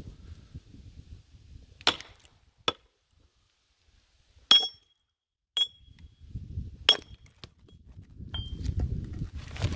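A hammer striking the back of an axe head driven into a log, a metal-on-metal clink about six times at uneven intervals; several strikes leave a short ringing tone.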